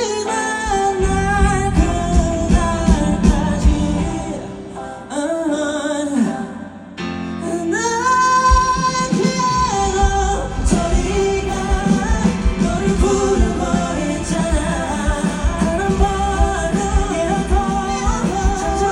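A singer and band performing a pop-rock ballad live. The bass and drums drop back briefly about five seconds in, then the band comes back in with a long held vocal note about eight seconds in.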